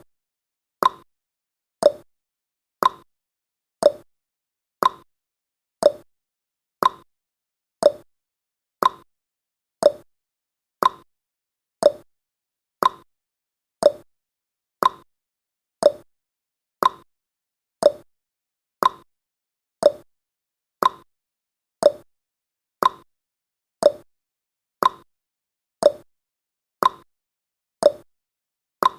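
Countdown timer's ticking sound effect: a short, sharp tick once a second, evenly spaced, marking off each second of the countdown.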